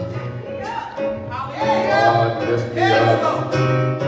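Gospel praise song: a singer over keyboard, bass and drums with cymbal strokes.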